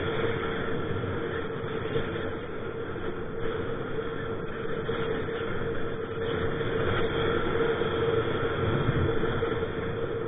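Strong wind buffeting the microphone: a steady rushing noise with a constant hum running through it.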